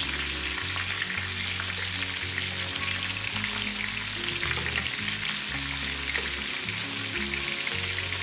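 Chicken thighs sizzling and crackling in hot oil in a frying pan as they are seared over medium heat, with a steady crackle throughout.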